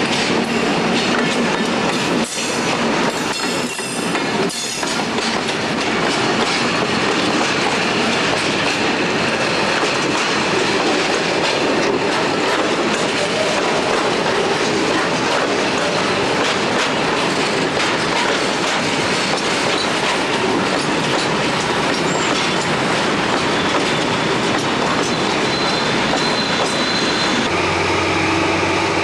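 A train running past close by, its wheels clattering over the rail joints and squealing. About a second and a half before the end it gives way to a steady low hum with a high whine.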